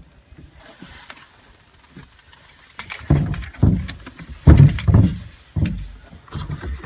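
A series of heavy, dull knocks and bumps as a large deep-cycle AGM battery is shoved against the sides of a tight battery compartment and will not go in. It starts about three seconds in, with the loudest knocks near the middle.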